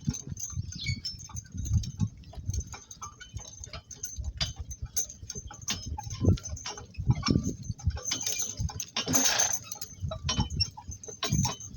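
A donkey-drawn work cart moving at a walk: uneven knocks and thumps from hooves and the rolling cart, with light clinking from harness hardware. A short hiss about nine seconds in.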